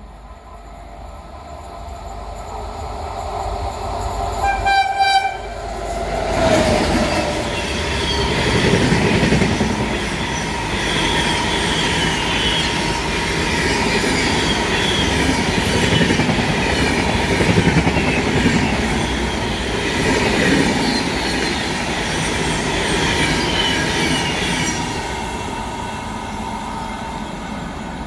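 WAP7 electric locomotive approaching and giving one horn blast about four seconds in. The locomotive and its Rajdhani Express coaches then rush past with a rhythmic clatter of wheels over rail joints, easing off near the end.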